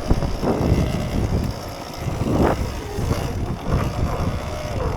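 Surron Ultra Bee electric dirt bike under throttle in packed snow: the motor's whine climbs sharply about halfway through over a low, uneven churning rumble from the rear tyre digging into heavy snow as the bike loses traction and starts to bog down.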